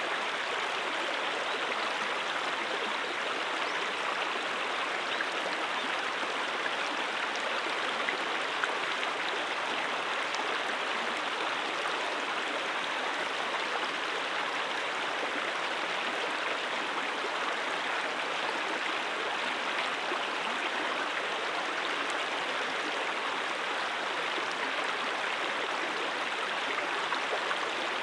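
Mountain stream flowing over rocks: a steady rushing and babbling of water.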